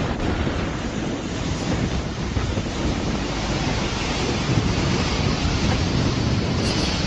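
Typhoon storm wind buffeting the microphone, a loud steady rushing noise with gusts.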